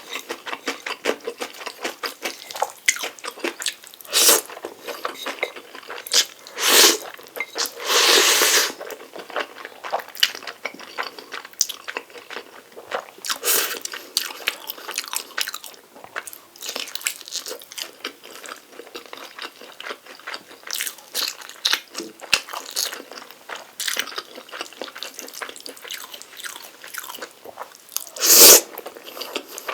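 Close-miked eating of Jjapaghetti instant black-bean noodles: continuous chewing with many small wet mouth clicks, broken by several louder, longer bursts, the loudest near the end.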